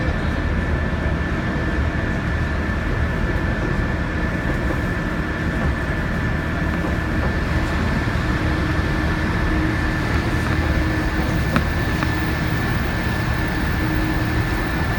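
Odoriko limited express train running at speed: a steady rumble of wheels on rail, with a thin steady high whine over it.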